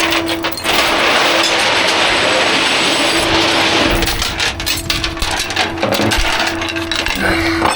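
Roadside tow-truck work: a steady mechanical hum runs under scattered metallic clinks, with a rush of noise from about one to four seconds in.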